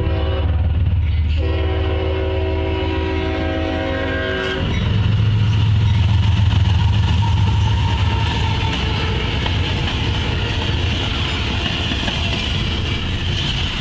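A freight train's diesel locomotive sounds its multi-chime air horn: one blast ending about half a second in, then a longer blast of about three seconds. The locomotive engines then pass loudly, followed by the steady rolling noise of the double-stack intermodal cars' wheels on the rails.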